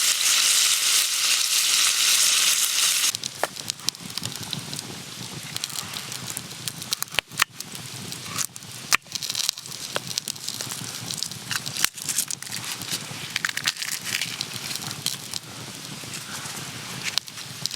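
Loud sizzling of food frying, cut off abruptly about three seconds in. After that a wood campfire crackles, with scattered sharp pops.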